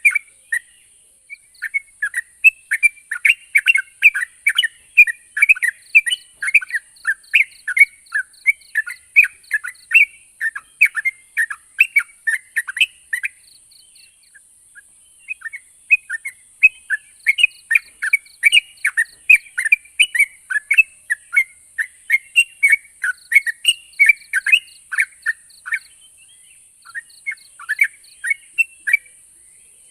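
Yellow-vented bulbul (trucuk) singing: long runs of quick, short, falling chattering notes, several a second. The song breaks off briefly about halfway and again near the end, then resumes.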